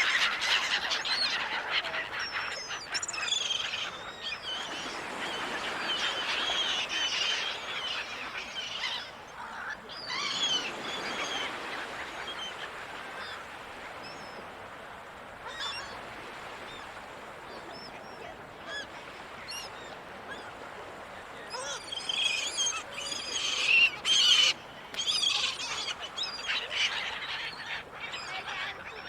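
Gulls calling in a flock, many short overlapping cries, busiest at the start and again about two-thirds of the way through, over a steady wash of ocean surf.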